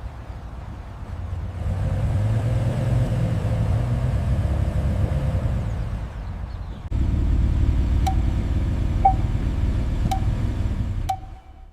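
Car engine and road rumble, swelling, then cutting abruptly about two-thirds of the way through into a second stretch of rumble. In the last few seconds, short sharp pings sound about once a second.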